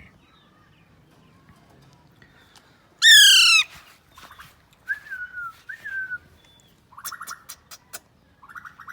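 Pet green parakeet calling. About three seconds in comes one loud harsh squawk that falls in pitch, followed by two softer short calls, then rapid clicking chatter near the end.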